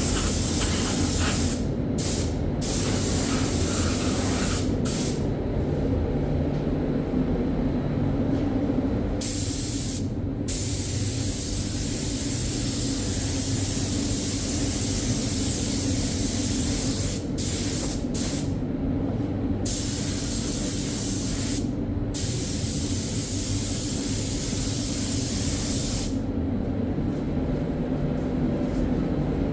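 Compressed-air paint spray gun applying bodywork primer: a steady hiss of air and atomised paint, which breaks off briefly several times as the trigger is let go between passes. A steady low hum runs underneath.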